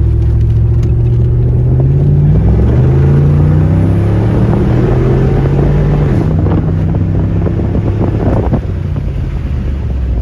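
The 6.0-litre swapped V8 of a 1999 C5 Corvette accelerating hard: the engine note climbs in pitch, drops at a gear change about two seconds in, climbs again, drops at a second shift about six seconds in, then holds steady and eases off near the end.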